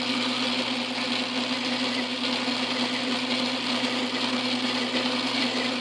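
Craftsman Atlas metal lathe running steadily under motor power, a constant motor-and-drive hum with an even mechanical hiss over it.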